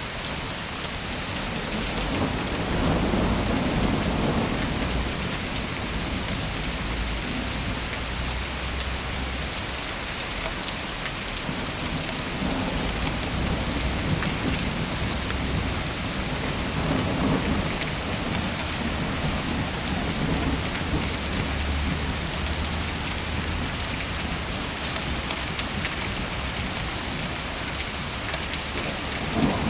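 Steady heavy rain pattering down, with low rumbles of thunder swelling and fading a few times.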